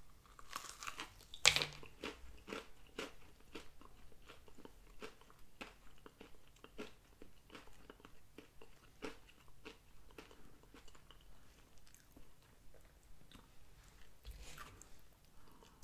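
A bite into a crispy fried Popeyes spicy chicken sandwich, with one loud crunch about a second and a half in, followed by steady crunchy chewing.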